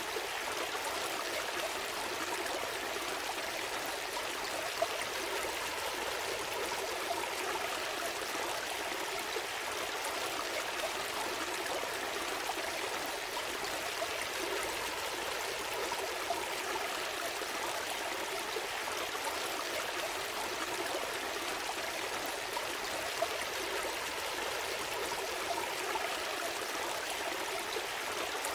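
A small stream flowing steadily, water babbling and trickling over stones, with an occasional faint tick or splash.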